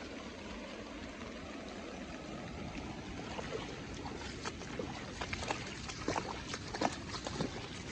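Heavy rain falling steadily, with sharp splashing clicks that grow more frequent and louder from about three seconds in.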